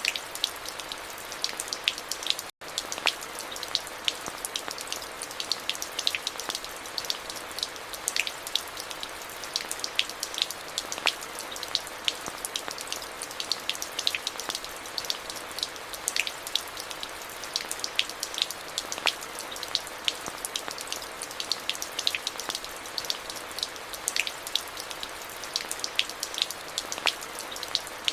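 Steady rain, an even hiss with many separate, sharp drop impacts standing out from it. The sound cuts out for an instant about two and a half seconds in.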